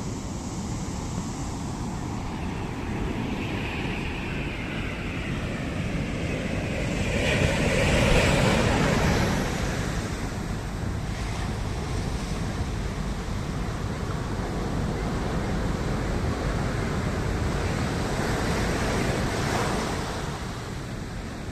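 Sea waves breaking and washing ashore, with one big wave crashing about eight seconds in and a smaller one near the end, with wind on the microphone.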